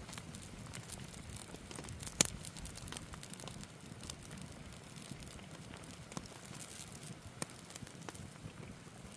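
Wood fire crackling steadily, with scattered sharp pops; the loudest pop comes about two seconds in.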